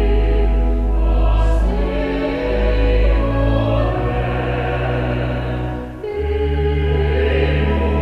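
Vocal quartet singing a choral piece in long, held chords over sustained low notes, moving to a new chord about six seconds in.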